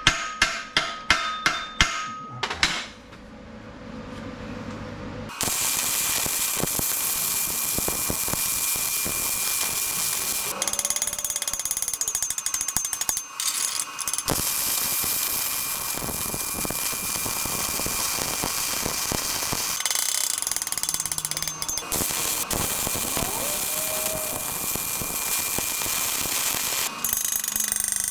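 A quick run of ringing hammer blows on steel. Then, about five seconds in, a MIG welder's arc starts crackling and runs on in long beads, with a few short breaks between them.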